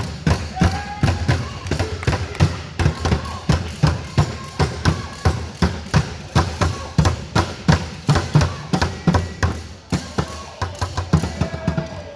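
Rapid, uneven series of thumps and taps, two to three a second, over faint music and voices.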